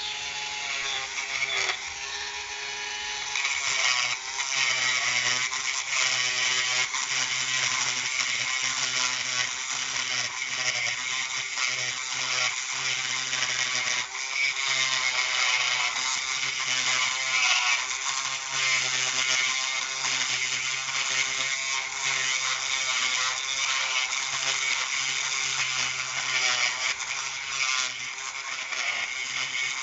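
Small high-speed rotary tool running steadily while its cutter or sanding wheel grinds down 3D-pen plastic built up on a repaired pressure-cooker handle. The grinding noise swells and eases as the bit is pressed to the work and lifted.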